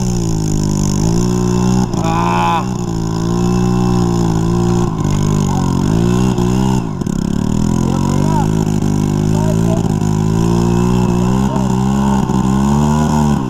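Dirt bike engine running continuously with the throttle opening and closing, its pitch dipping and rising several times.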